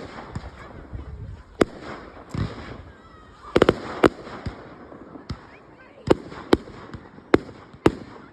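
Fireworks display going off: about ten sharp, unevenly spaced bangs from bursting shells, two of them close together about three and a half seconds in.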